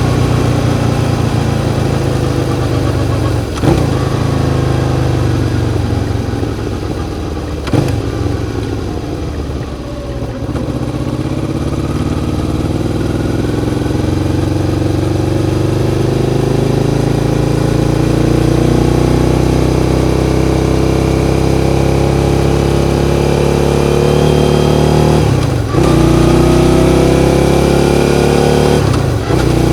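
Suzuki SV650's 645 cc 90-degree V-twin engine under way. It slows over several seconds, with two sharp blips on the way down. It then pulls steadily up through the revs, with a brief drop in engine note twice near the end, as at gear changes.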